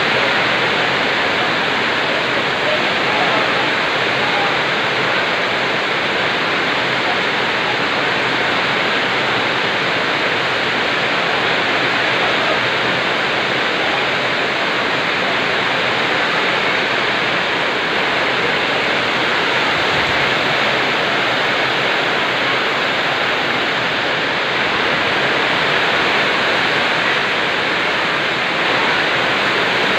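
Heavy rain falling in a steady, even hiss of water.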